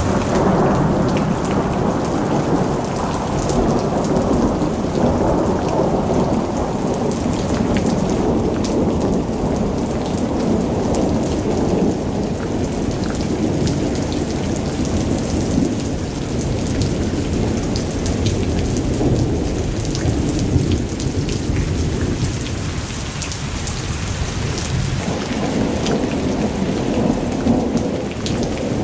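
Heavy rain falling steadily, a deep continuous rumble underneath and many fine drop ticks on top.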